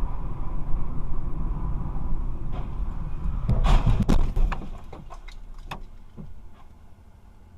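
Car driving with a steady low road rumble, broken about three and a half seconds in by a quick cluster of knocks and clattering. After that the rumble dies away and only a few scattered clicks remain.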